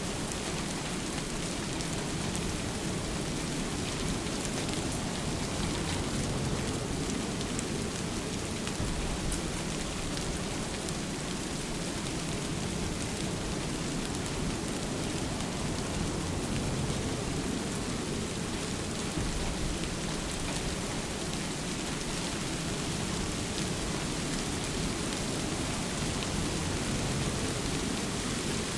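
Steady rain falling, a continuous even hiss with fine drop ticks scattered through it, over a deep constant low rumble.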